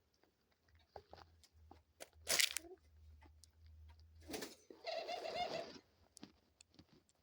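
A dove pecking at seeds, with scattered small clicks and a louder rattle about two seconds in, then a dove cooing once for about a second past the middle.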